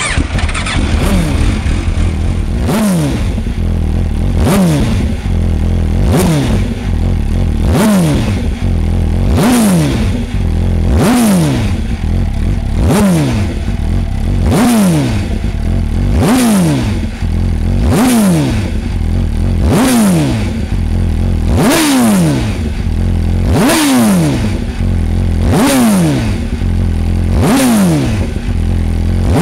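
MV Agusta F4 R312's inline-four engine, breathing through a titanium exhaust system, being blipped again and again from idle: a sharp rev up, then the note falls back, repeated about every second and a half to two seconds.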